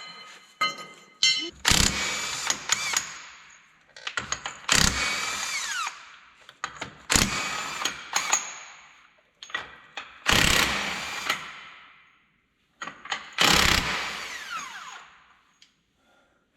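Impact wrench spinning the lug nuts off a skid-steer wheel in five bursts of a second or two each, its motor whining down in pitch after each burst.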